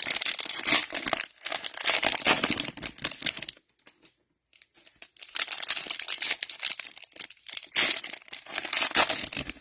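Cellophane wrappers of 2022 Panini Mosaic football cello packs crinkling and tearing as packs are opened by hand, in two bouts with a short pause near the middle.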